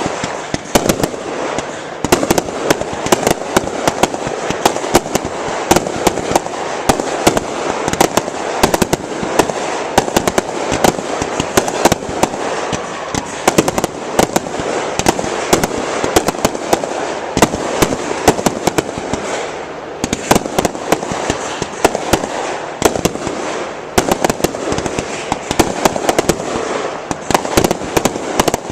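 Aerial fireworks display going off in quick succession: a dense, unbroken run of sharp bangs, several a second, over continuous crackling.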